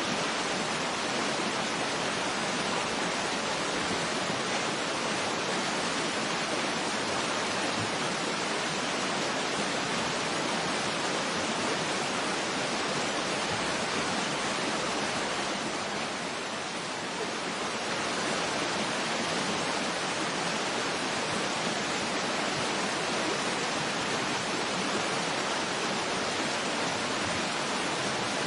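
Waterfall: a steady, even rush of falling water, mostly hiss with little low rumble, easing slightly for a moment past the middle.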